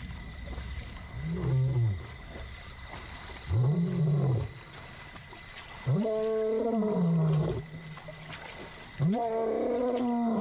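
Young male lion calling: four roars, each rising then falling in pitch, building longer and louder in sequence. It is a lone lion's contact call to find his lost brother.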